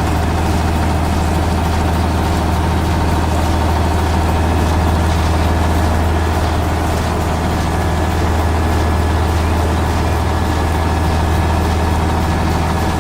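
Steady low engine hum, like a heavy vehicle idling, holding an even level throughout.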